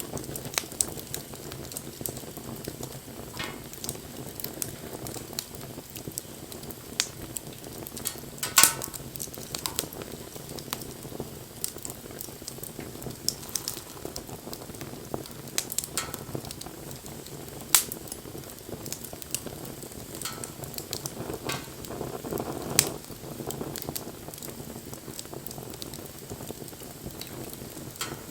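Wood fire burning, with a steady hiss and scattered sharp crackles and pops of the burning wood; a few pops stand out louder.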